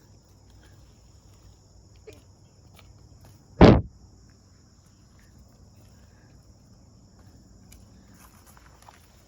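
Insects chirring steadily in a high, even band, with one loud, sharp knock about three and a half seconds in and a few faint footsteps.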